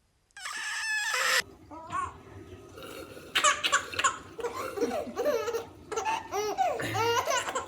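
A loud, harsh burst of noise lasting about a second, starting just after the beginning, then laughter that includes a baby laughing, in repeated bouts from about three seconds in.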